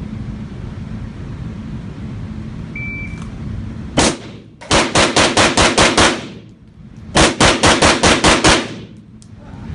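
Pistol fired fast at a swinging target: a single shot, then two quick strings of about eight shots each, around six shots a second.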